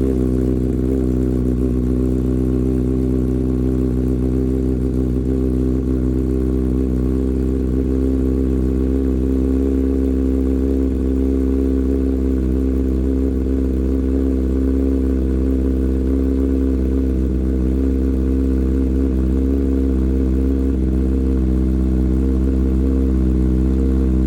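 Kawasaki ZX-10R's inline-four engine idling steadily just after a cold start, heard at the exhaust; the pitch holds level with no revving.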